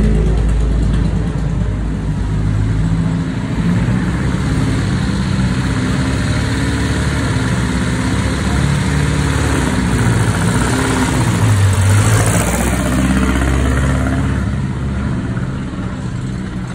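Engines of vintage cars running at low speed as they drive over cobblestones, several engine notes overlapping and rising and falling; one grows louder about two-thirds of the way through.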